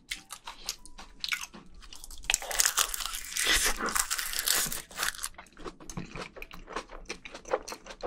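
Close-miked eating: a big mouthful of spicy, saucy food wrapped in a sheet of seaweed, bitten and chewed with wet crunching and smacking. It is loudest from about two to five seconds in, then settles into quicker, sharp mouth clicks as the chewing goes on.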